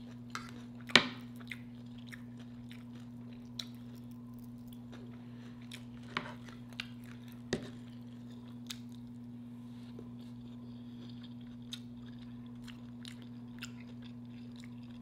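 Close-miked chewing with crisp crunches of food, the loudest about a second in and others near six and seven and a half seconds, over a steady low hum.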